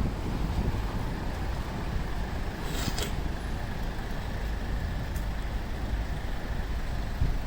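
City street traffic: a steady low rumble of passing vehicles, with a brief hiss about three seconds in.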